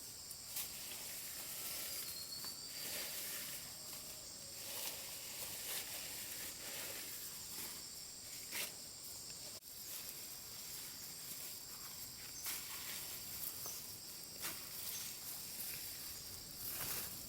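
Steady high-pitched insect drone, with scattered brief rustles and clicks.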